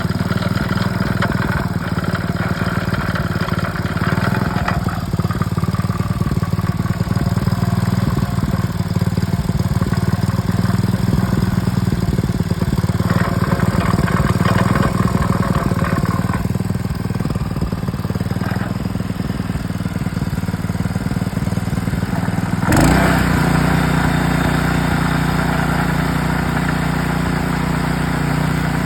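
Honda four-stroke petrol engine of a Koshin KH-50 engine pump running steadily, a sign the cleaned carburettor has it running well. About 23 seconds in the sound changes abruptly with a brief jump in level, then runs on more evenly.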